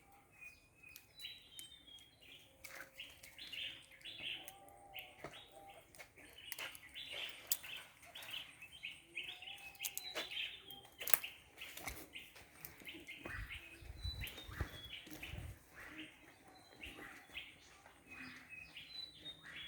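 Birds chirping with many short, high calls repeated throughout, along with scattered sharp clicks and a few low thumps in the second half.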